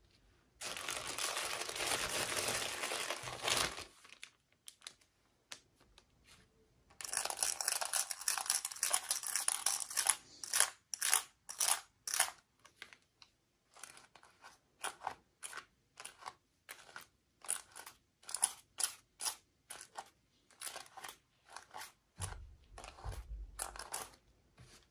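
Plastic packaging crinkling and tearing as a toy box is unwrapped by hand: two long stretches of crinkling, then a run of short crackles. A low rumble of handling near the end.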